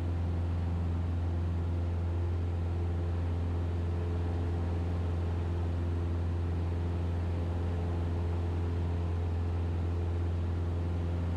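Cessna 172RG's Lycoming O-360 engine and propeller droning steadily in the cabin: a constant low hum with no change in pitch.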